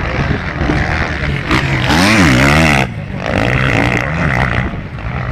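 Motocross bike engines revving hard, pitch rising and falling as riders work the throttle. The loudest run of revs comes about two seconds in and drops off sharply just before three seconds, then the engines go on revving more softly.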